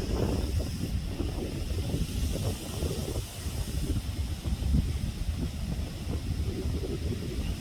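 Wind buffeting the microphone: a constant, uneven low rumble with a faint hiss above it.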